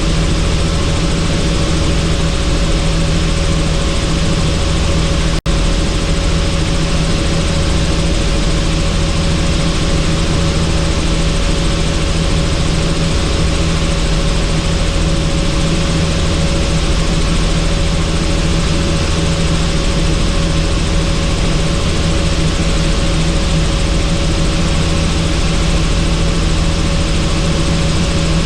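Helicopter in flight, heard from on board: a loud, steady drone of rotor and engine with a constant low hum and a higher steady whine. The sound is broken by a split-second dropout about five seconds in.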